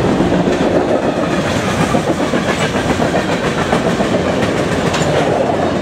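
A freight train's covered hopper cars rolling past at speed, their steel wheels rumbling and clacking on the rails in a loud, steady run.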